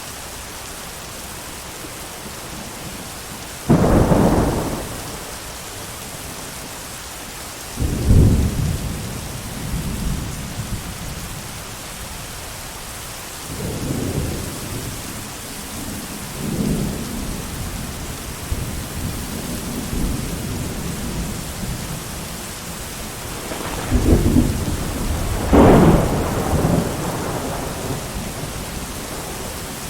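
Thunderstorm: steady heavy rain with thunder. A sharp thunderclap about four seconds in and another about eight seconds in, softer rumbles in the middle, and a longer, louder rolling rumble near the end.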